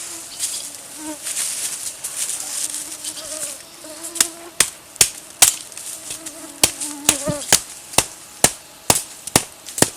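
Insects buzzing with a wavering pitch. About four seconds in, a run of about a dozen sharp knocks begins, roughly two a second.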